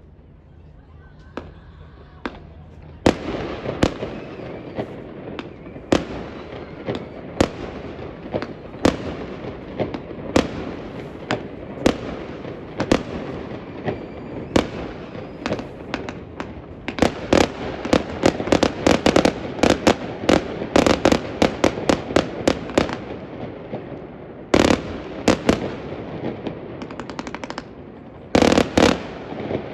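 A fireworks display. Shells burst in a steady run of sharp bangs that starts about three seconds in, then crowds into rapid volleys of crackling reports, with a dense cluster of bangs near the end.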